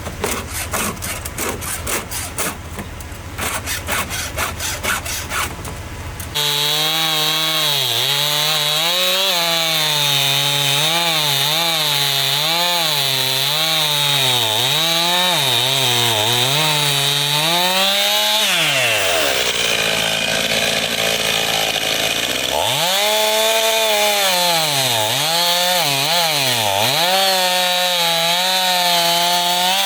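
Two-stroke chainsaw cutting firewood, its engine pitch dipping and recovering over and over as the chain bogs in the cut. The first six seconds hold a rapid rhythmic clatter before the saw comes in loud and abruptly. About two-thirds of the way through the saw's pitch sags and breaks up for a few seconds, then it climbs back and keeps cutting.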